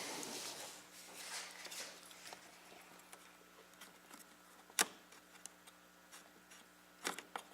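Faint handling of computer parts, with one sharp click about five seconds in and a quick cluster of clicks near the end.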